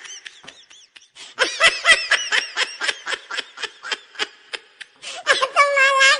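Snickering laughter in quick repeated bursts, about four or five a second, ending in a held, steady high note.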